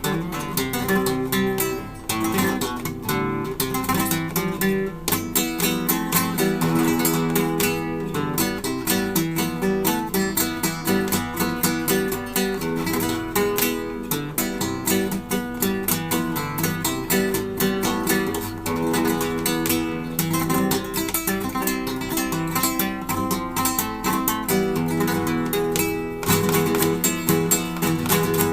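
Acoustic guitar played solo, rapid plucked notes and strums with a quick, busy rhythm, in a flamenco or Latin style.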